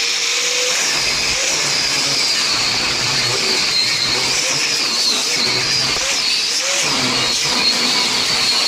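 A power tool running steadily under load, its high whine wavering up and down in pitch.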